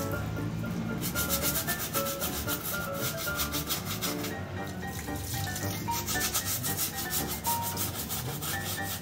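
A metal cup being scrubbed by hand with a scouring pad: quick, evenly repeated rasping strokes.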